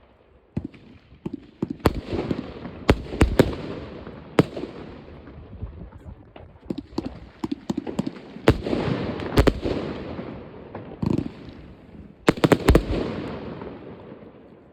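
Fireworks going off: a string of sharp bangs at irregular intervals, each followed by a rolling echo and crackle, with a quick cluster of loud bangs about twelve seconds in before it fades out.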